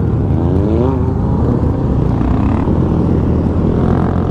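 Motorcycle engine running, rising in pitch as it accelerates in the first second, then holding steady.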